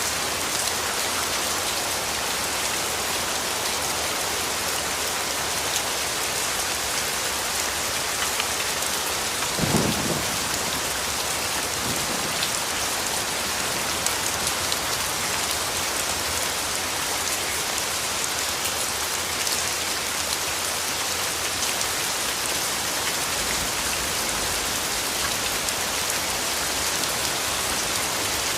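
Steady rain falling on leaves and ground. About ten seconds in there is a short, low rumble of thunder, with a fainter low rumble later on.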